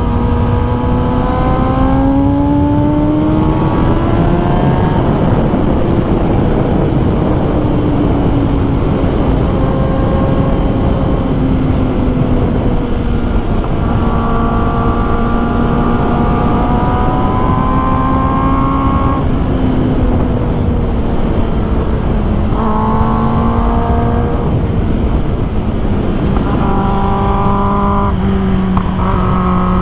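2021 Kawasaki ZX-10R inline-four engine under way, its note rising and falling several times as the bike accelerates and shifts, over a steady rush of wind noise.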